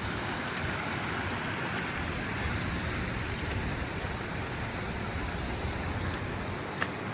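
City street traffic noise: a steady wash of passing vehicles, with a low rumble that swells through the middle. A single sharp click comes near the end.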